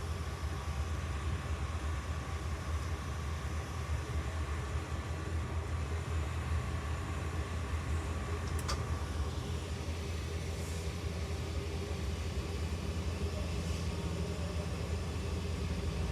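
Train noise: a steady low rumble with a faint steady whine, and a single sharp click about nine seconds in.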